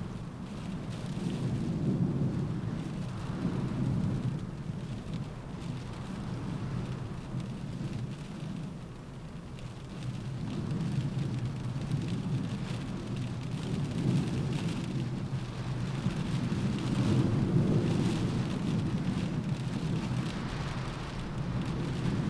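Rain falling with a gusting windstorm: a deep rumble that swells and eases every few seconds over a fainter steady hiss of rain.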